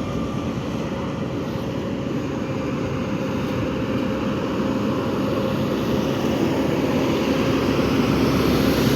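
Steady vehicle engine and road noise, slowly growing louder.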